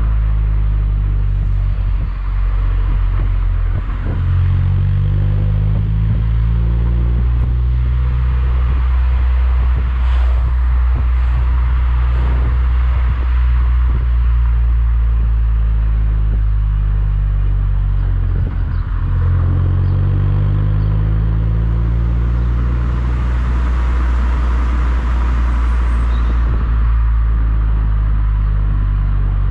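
Mazda MX-5 NC's 1.8-litre four-cylinder engine running through an IL Motorsport aftermarket exhaust: a deep, steady drone whose pitch sweeps up and down twice as the engine speed changes.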